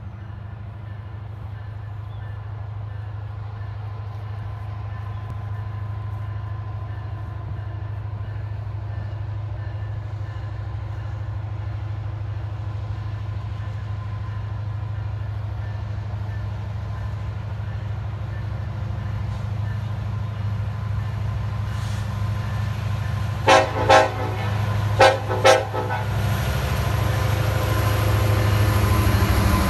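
Union Pacific diesel freight locomotives approaching, their engine drone growing steadily louder. About 23 seconds in, the lead locomotive's horn sounds four short blasts in two quick pairs.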